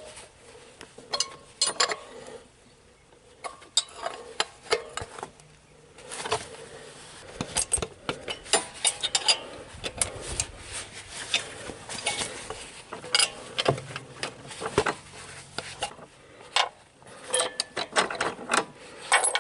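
Irregular metallic clicks and clinks of a wrench turning the nut on a homemade injector puller, a welded nut-and-bolt pulling through heavy-wall pipe and flat washers, slowly drawing a seized fuel injector out of a Perkins diesel engine.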